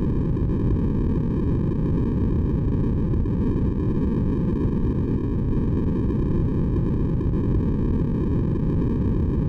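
Steady, unbroken electronically generated sleep noise, deep rather than hissy, with most of its energy in the low range.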